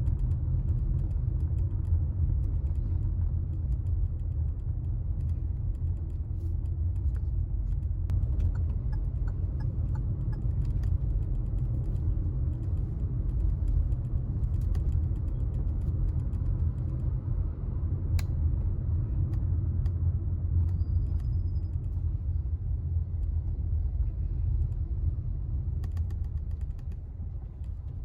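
Steady low rumble of a car driving, heard from inside the cabin, with scattered light clicks and creaks.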